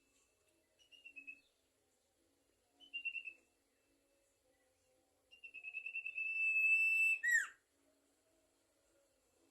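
A sirtu songbird singing: three trilled phrases of rapid whistled notes, the first two short, the third long and ending in a sharp downward-sweeping note.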